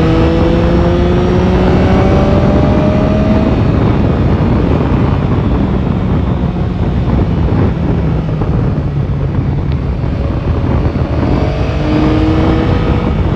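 Yamaha Tracer 9 GT's 890 cc inline-three engine pulling under steady acceleration, its pitch rising slowly over the first few seconds, then a stretch of mostly wind and road rush, and the engine climbing again near the end.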